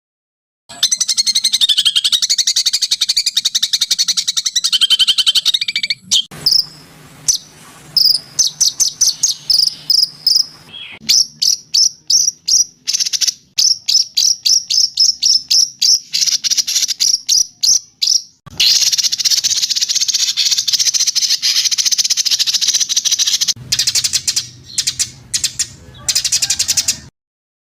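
Songbirds singing in spliced recordings: first a dense, buzzy, trilling song, then a long run of rapid repeated high chirps, several a second, then another dense high warbling song. Each clip starts and stops abruptly.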